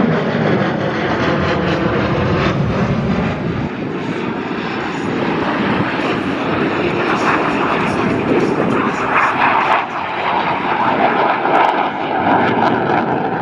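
Jet engines of Blue Angels F/A-18 Super Hornets during a multi-jet crossing pass, a loud continuous jet noise with crackle. The pitch drops around the start as a jet goes by, and the noise swells again later on.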